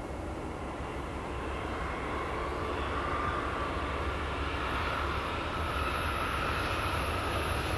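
A train approaching: a steady low rumble with a rising rush of noise that grows slowly louder.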